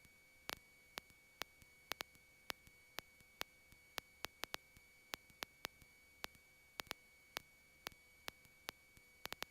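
Faint electrical clicks at an irregular pace, two or three a second, over a low steady hiss and a thin high tone, as heard on a cockpit audio feed with no engine sound coming through.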